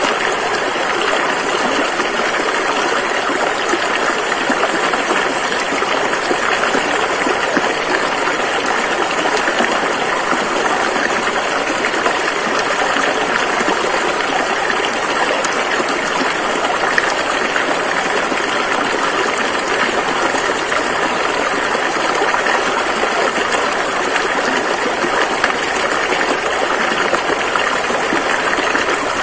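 River water flowing and rushing over rocks: a steady, even rush that holds without change.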